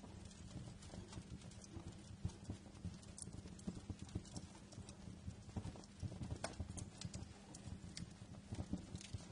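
Wood fire crackling in a fireplace: irregular snaps and pops over a steady low rumble of the flames.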